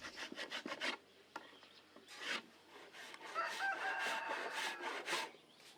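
Hand plane scraping along a wooden plank to smooth it, with a quick run of short strokes in the first second and another a little later. A rooster crows in the background during the second half.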